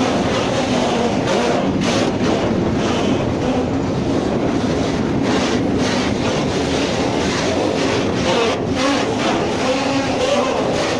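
Open freight wagons of a passing train rolling by close at hand: a steady rumble and rattle of steel wheels on the rails, with a faint wavering squeal and the odd knock.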